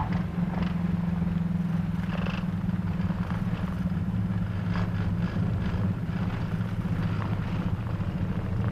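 Cessna 210's six-cylinder piston engine running at low power in the cabin after landing, a steady low drone with a few faint ticks above it.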